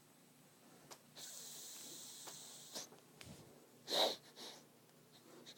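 A child making a funny breathy noise: a long hissing breath, then one short loud snort about four seconds in.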